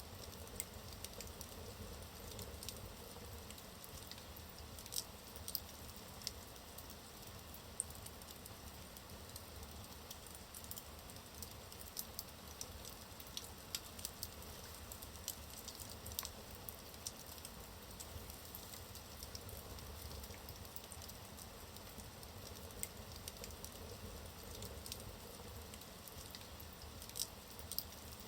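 Logs burning in a fireplace: a steady low hiss from the fire with frequent small crackles and pops scattered irregularly throughout.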